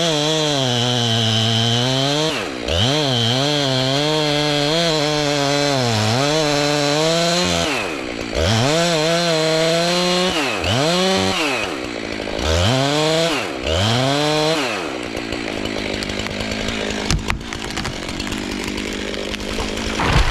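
Jonsered two-stroke chainsaw cutting into a pine trunk at full throttle, the engine pitch sagging under load and picking back up several times. About three-quarters of the way through it drops to a steady idle, with a single sharp click near the end.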